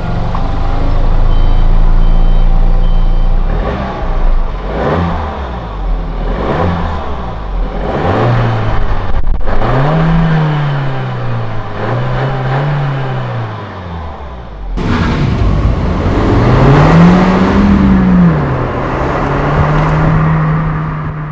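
Suzuki Swift Sport's engine heard through its stock exhaust, revved while the car stands. It idles steadily for a few seconds, then takes a run of quick throttle blips, then longer revs that rise and fall, and ends held at a raised steady speed.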